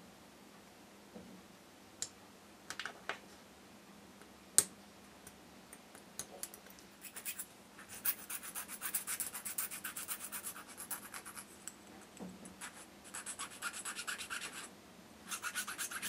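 A few sharp clicks and taps, then runs of quick, even scratching strokes, about eight to ten a second, starting about seven seconds in: a small part being worked by hand, scratching on a small workpiece.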